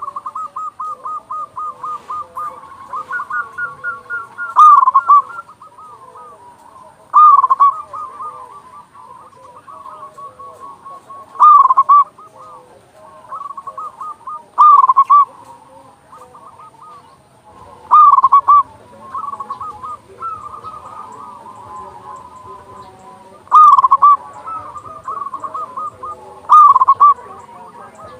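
Zebra doves (perkutut) cooing: loud bursts of cooing notes come every few seconds, with softer, rapid trains of cooing notes running between them.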